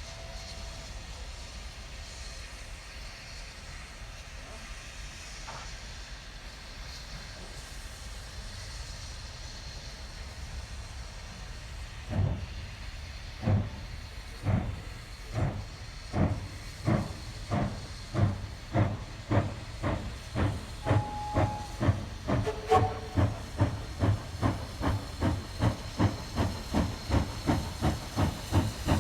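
Steam locomotive pulling away with its train: steady steam hiss, then exhaust chuffs begin about twelve seconds in, starting slow and quickening to about two a second as the engine gathers speed.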